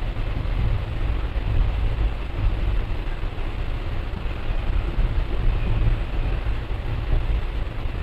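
Passenger train running along the track: a steady low rumble of wheels on rail with a rushing noise over it.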